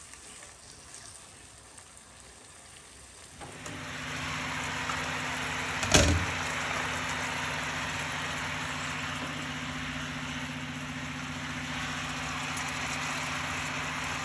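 Chicken pieces bubbling and sizzling in butter, oil and marinade in a frying pan over a high gas flame. The sound gets louder about three and a half seconds in, with a steady low hum underneath, and there is a single knock about six seconds in.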